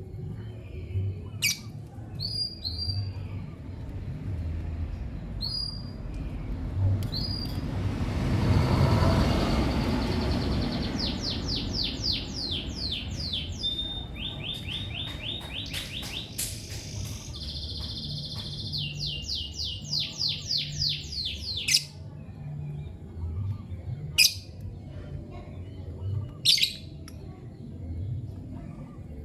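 Lovebirds chirping: scattered short high chirps, then long trains of rapid, sharp chirps, several a second, through the middle, and a few single sharp calls near the end. A rush of noise swells and fades about a third of the way in.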